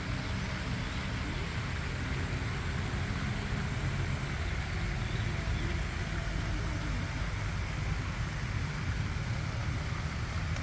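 Steady low rumble with a faint even hiss, like wind or distant traffic on the microphone; no clear bird calls stand out.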